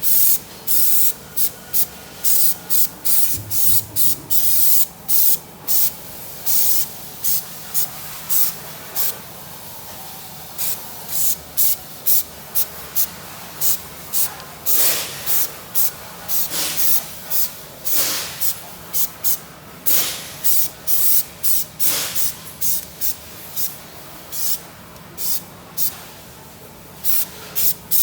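Paint being sprayed onto a Vespa's repaired floor panel in many short hissing bursts, about one or two a second, with brief gaps between them.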